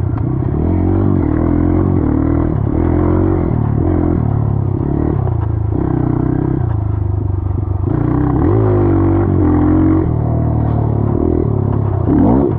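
Dirt bike engine running under changing throttle, its pitch stepping up and down as it is ridden, with a rising rev about eight seconds in and a sharp rev near the end.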